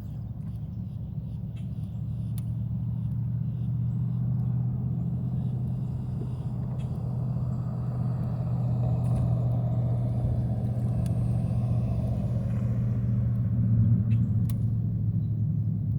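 A motor running steadily with a low drone, slowly growing louder over the first several seconds and loudest near the end.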